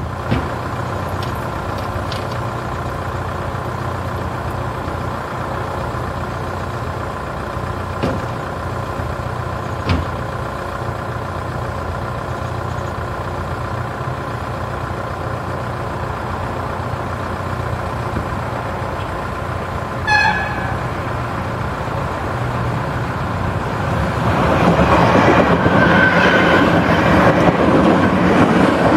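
A DART electric commuter train passes over the level crossing, its running noise building from about 24 s in and becoming the loudest sound near the end. Before it there is a steady background with faint steady tones, a few light clicks, and a short horn toot about 20 s in.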